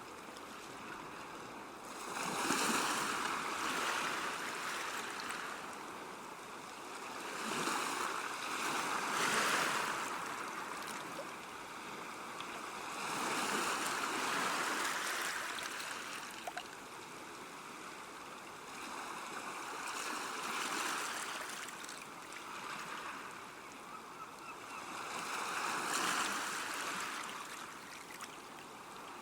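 Water washing against a river bank, rising and falling in slow swells about every five or six seconds.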